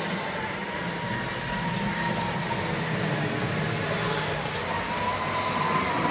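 Tri-ang OO gauge model locomotive running round the track: a steady motor whine over the rumble of wheels on the rails, the whine rising slightly in pitch near the end.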